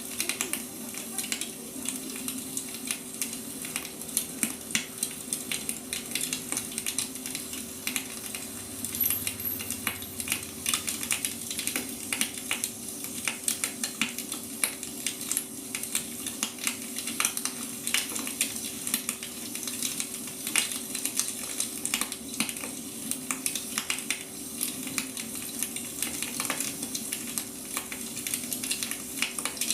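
Wood fire crackling, with many irregular small pops and snaps over a soft hiss, and a faint steady hum underneath.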